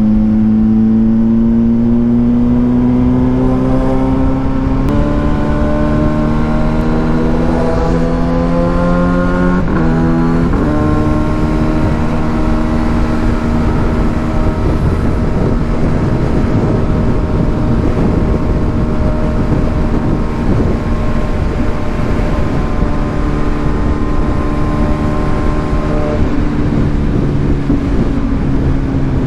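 2022 Kawasaki Ninja 1000SX's inline-four engine through an aftermarket exhaust, pulling through the gears. Its note rises, drops at an upshift about five seconds in, climbs again and shifts twice around ten seconds in, then holds a steady cruise over a constant rush of wind.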